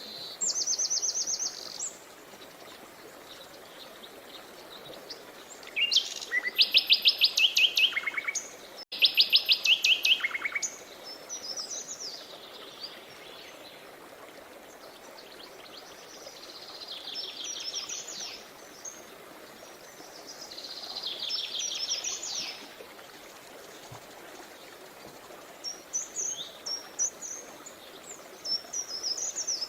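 Songbirds singing over a steady rush of flowing river water. The loudest are two fast trills of rapidly repeated notes about six and nine seconds in, each stepping down in pitch at its end, with more trilled phrases and short chirps scattered through.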